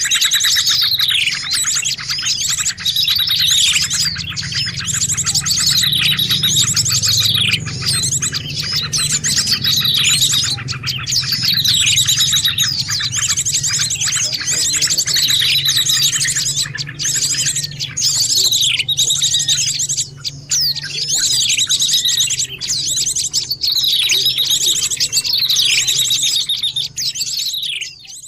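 Bird-lure recording of many small birds calling noisily at once: repeated falling whistles and fast, buzzy trills in a busy, looping chatter over a low hum. It fades out right at the end.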